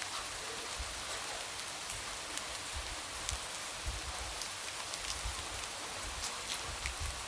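Light rain falling steadily, a constant hiss with scattered drops tapping against a window.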